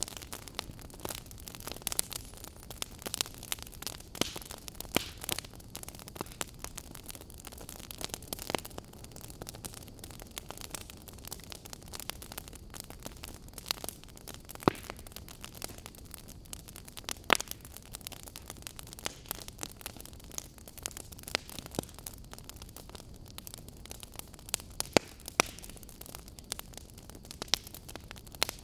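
Wood fire burning, with irregular sharp crackles and pops from the burning logs over a soft steady hiss.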